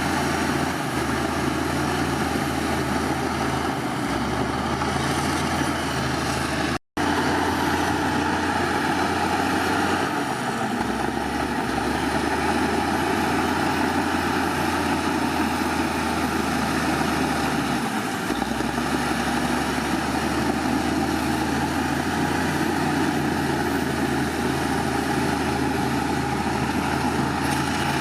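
Heavy diesel earthmoving machinery running steadily, a bulldozer and dump truck engine drone with a constant low hum. The sound cuts out for an instant about seven seconds in.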